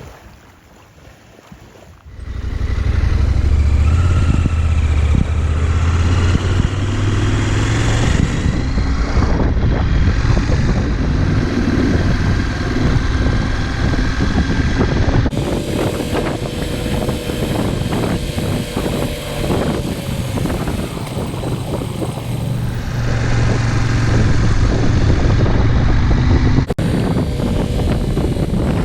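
Adventure motorcycle running under way, the engine and road noise loud and steady, coming in abruptly about two seconds in after a quieter start and jumping abruptly twice more.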